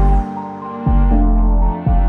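Background music: slow ambient synthesizer chords over a deep bass note that drops out briefly twice.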